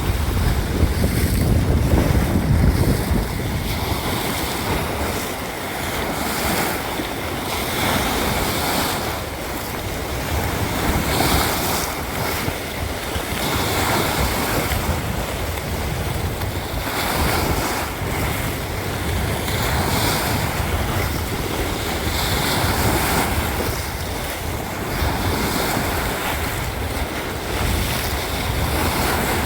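Sea waves breaking and washing on the shore in a steady swell, with wind buffeting the microphone, strongest in the first few seconds.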